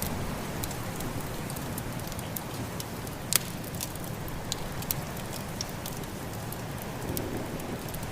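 Wood fire crackling with scattered sharp pops, the loudest about three seconds in, over a steady rushing noise of a snowstorm.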